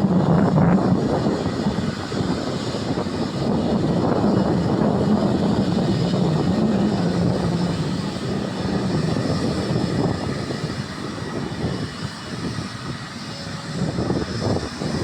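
Airliner engines rumbling loudly as a plane passes close by. The sound eases off a couple of seconds before the end, then builds again.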